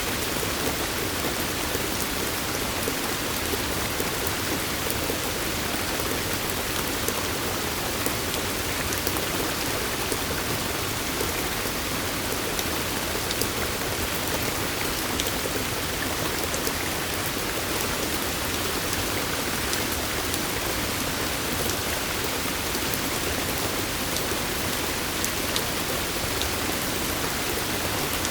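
Steady wash of falling water, a dense patter with fine drip ticks throughout, unchanging in level.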